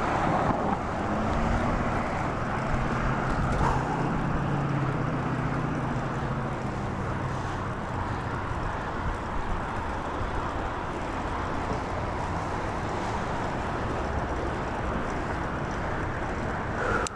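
Wind rushing over the microphone of a moving bicycle, with road traffic; a motor vehicle's engine hum passes during the first few seconds.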